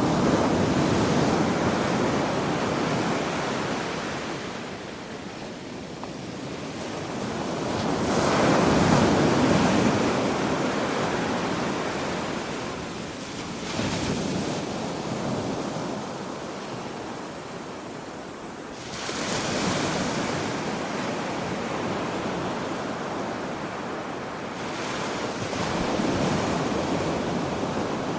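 Ocean waves breaking on a beach, the surf swelling and washing back about five times, every five or six seconds.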